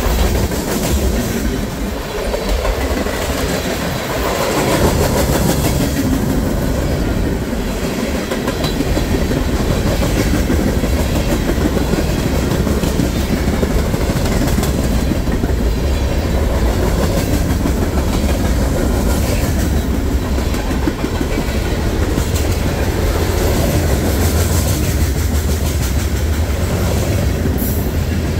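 Freight train cars rolling past, a steady rumble with the clickety-clack of wheels over the rail joints.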